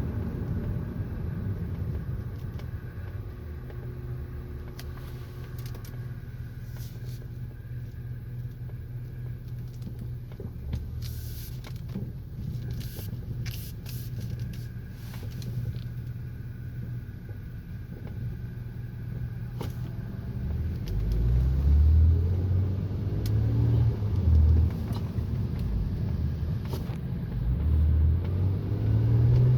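Road and engine noise inside a 2006 Honda Accord V6's cabin while driving and coasting, with a faint whine that the owner cannot place: he wonders about the exhaust A-pipe, a transmission mount, or a bearing in the torque converter. The low rumble grows louder in the last third.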